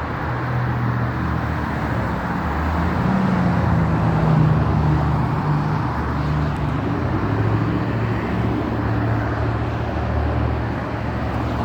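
Road traffic: motor vehicle engines running with steady road noise, growing a little louder a few seconds in.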